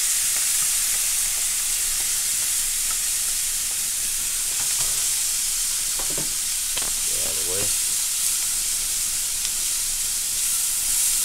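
Canned sweet corn sizzling in butter in a hot cast iron skillet, with a steady frying hiss. A wooden spoon stirs it, scraping and knocking on the pan a few times in the middle.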